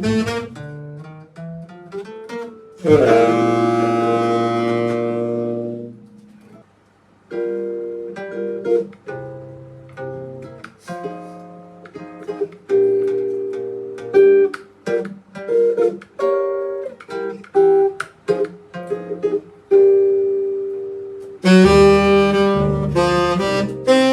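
Band rehearsing. A full-band chord rings out and fades a few seconds in, then a guitar plays an unaccompanied run of picked notes, and the full band with saxophone comes back in near the end.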